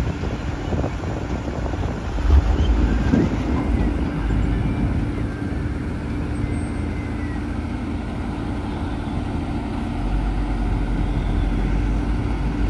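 JCB 3DX backhoe loader's diesel engine running steadily at working revs, with a held hum throughout.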